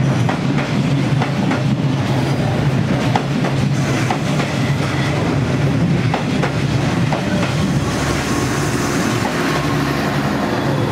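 Passenger train carriages rolling past at close range: a steady low rumble with the wheels clicking over rail joints.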